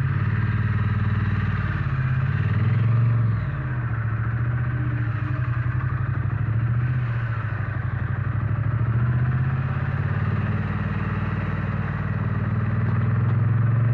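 Triumph Bonneville T100's 900 cc parallel-twin engine running on the move at low speed, its pitch rising to about three seconds in, dropping back, then climbing again near the end as the bike picks up speed.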